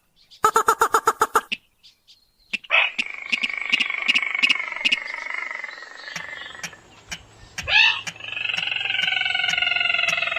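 Calls of a crake or rail (sintar, mandar padi) from a bird-lure recording. A quick run of pulsed notes comes first, then long harsh calls with several stacked pitches sliding slowly down, a sharp rising note, and more of the drawn-out calls. Faint regular ticks sound about twice a second throughout.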